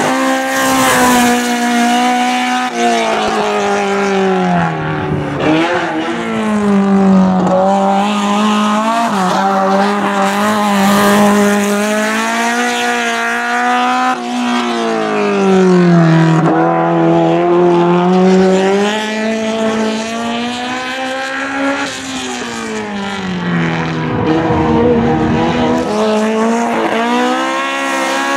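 BMW M3 E30 race car's four-cylinder engine at full throttle, its pitch climbing and dropping repeatedly through the gears.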